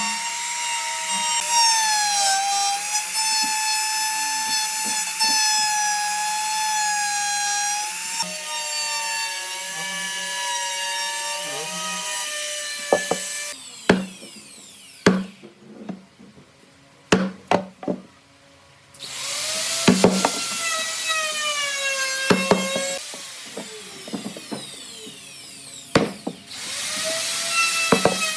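A power tool working wood, its motor whining with the pitch dipping and recovering as it bites. It stops about halfway through, a handful of sharp knocks follow, and then the tool starts again twice, its pitch sagging under load.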